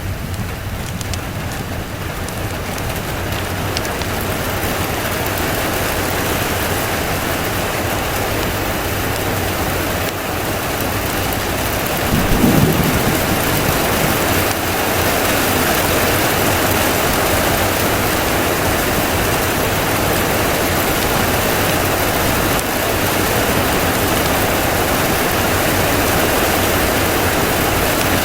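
Steady heavy rain, growing louder over the first several seconds, with a short low rumble of thunder about twelve seconds in.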